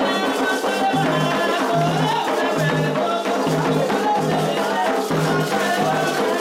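Candomblé ceremonial music: atabaque hand drums beating a steady pulse, with a rattle shaking and voices chanting over them.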